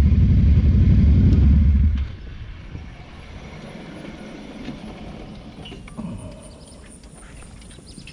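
Ducati cafe racer motorcycle engine running with a loud, low pulsing sound, then cutting off abruptly about two seconds in. After that only a quiet background with a few faint clicks remains.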